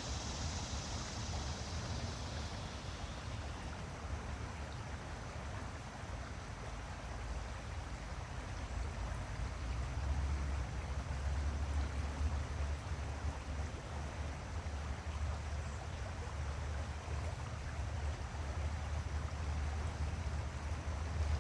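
Water running in a stream, an even rushing and trickling, over a steady low rumble. A higher hiss fades out in the first few seconds.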